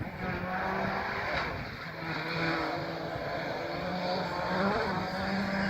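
Rally car engine heard at a distance on a gravel special stage, its note shifting as the driver works through the gears, growing steadily louder as the car approaches.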